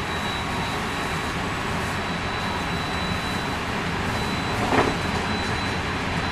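Running noise heard inside a JR West 223 series 2000 subseries electric multiple unit's motor car (Hitachi IGBT VVVF drive): a steady rumble of wheels on rail with a thin, constant high-pitched tone over it. A short bump stands out a little under five seconds in.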